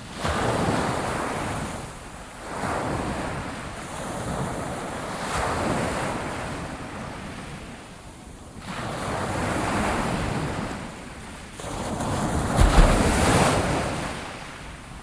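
Ocean waves breaking on the shore, each one surging and washing back, with a new wave every two to three seconds. The loudest wave comes about twelve seconds in, with a low thud as it breaks.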